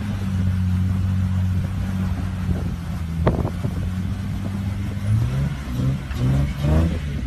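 Jeep engine labouring under load as it crawls up a steep rock face: a steady low drone, then several short rising revs near the end. There is a sharp knock about three seconds in.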